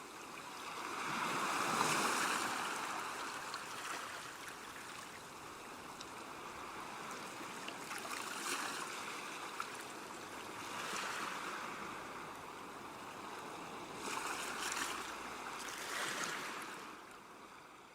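Sea waves washing onto a rocky shore: a steady hiss of surf that swells with each incoming wave every few seconds, the biggest surge about two seconds in.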